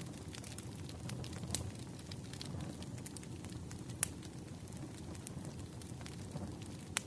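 Firewood burning: a low steady rush of flame with irregular sharp pops and crackles, the loudest snap about four seconds in.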